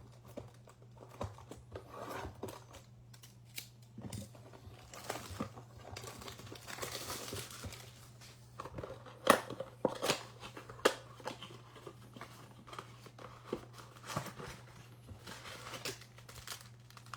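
Blaster box of baseball cards being opened: plastic wrap and cardboard crinkling and tearing, with scattered clicks and a few sharp snaps about halfway through, over a steady low hum.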